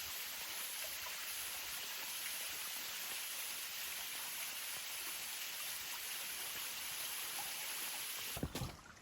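Steady rushing hiss of flowing creek water. Near the end it cuts off abruptly, and a few footsteps and knocks on the forest floor follow.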